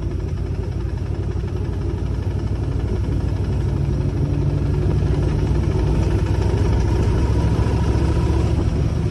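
A motor vehicle's engine running steadily with a low hum, growing a little louder a few seconds in.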